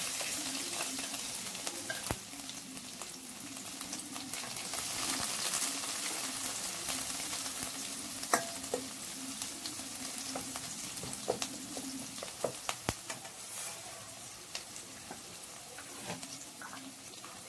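Crushed garlic and dried red chillies sizzling in hot oil in a steel kadai, stirred with a perforated steel skimmer that scrapes and taps against the pan a few times.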